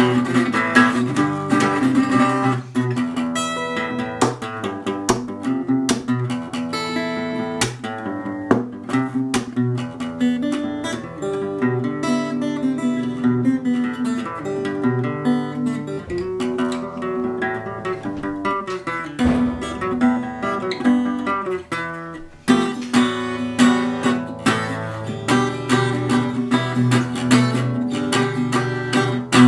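Acoustic guitar played solo, mixing picked notes and strummed chords; the playing thins out briefly about two-thirds of the way through, then full strumming returns.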